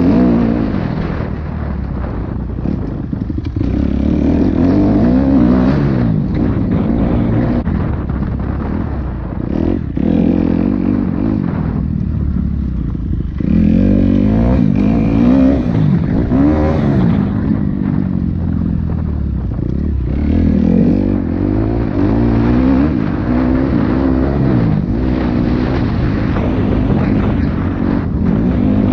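Dirt bike engine being ridden hard, revving up and dropping back over and over as the rider accelerates, shifts and backs off.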